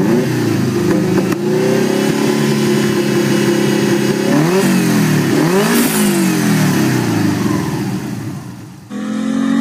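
Subaru flat-four engine swapped into a classic Volkswagen Beetle, running through a short open exhaust pipe. It is blipped quickly up and down two or three times about halfway through, then fades out near the end as music comes in.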